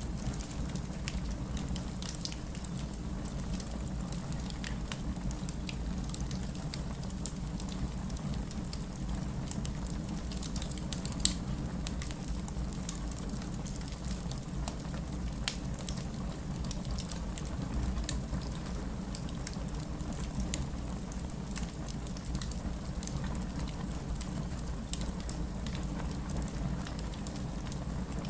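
Wood fire burning, with a steady low rumble of flame and frequent small crackles and pops from the burning logs. One sharper, louder pop comes about 11 seconds in.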